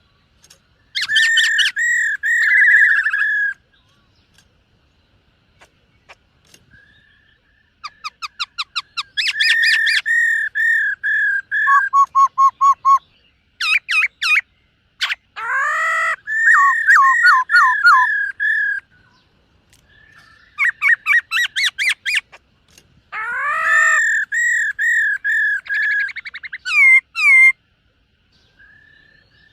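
Black-throated laughingthrush singing in loud phrases of rapidly repeated whistled notes, with short silent pauses between phrases and a longer pause near the end.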